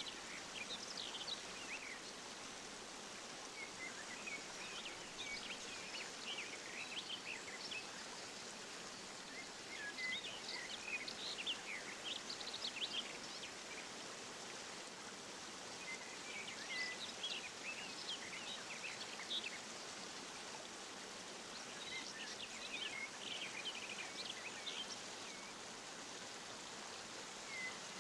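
Steady rush of running water from an aviary waterfall, with small aviary birds chirping over it in several short bouts of quick high chirps.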